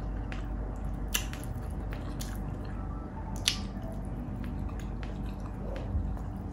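Close-up wet mouth sounds of someone chewing and squishing rice and pork eaten by hand, with scattered sharp clicks, the strongest about a second in and about three and a half seconds in, over a low steady hum.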